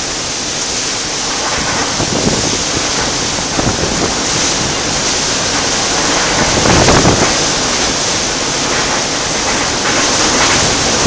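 Typhoon Soudelor's force-17-plus wind and driving rain at a window: a loud, continuous rushing that swells and eases in gusts, strongest about seven seconds in.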